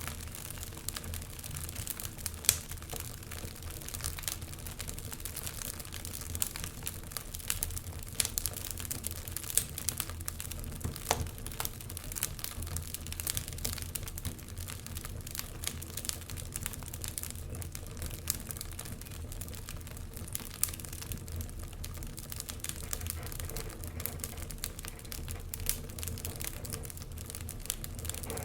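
Wood fire crackling in an open fireplace: a dense run of small irregular crackles, with a few sharper pops standing out, over a steady low rumble.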